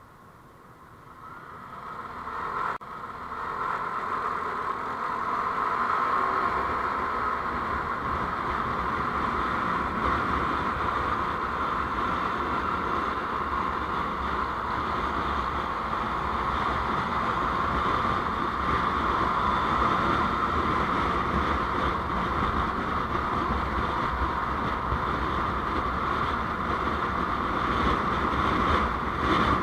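Steady road and wind noise from a moving vehicle, rising over the first few seconds as it picks up speed, then holding level.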